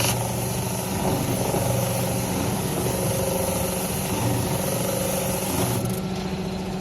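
Automatic swing-sanding woodworking machine running steadily, a constant mechanical hum under a high hiss; the hiss drops away suddenly near the end.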